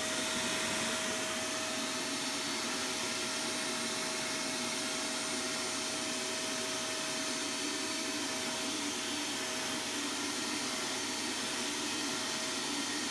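Ozito 1250-watt wet and dry vacuum cleaner running steadily while vacuuming wet, dirty carpet, a constant motor rush with a steady whine over it.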